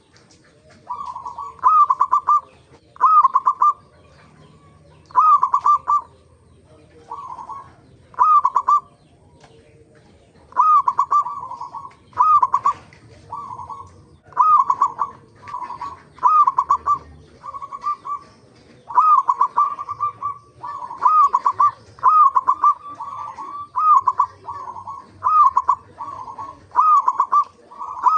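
Zebra dove (perkutut) cooing: phrases of short, repeated coo notes in quick succession, with short pauses between phrases. This is the call of local perkutut, used as a lure to get other perkutut singing.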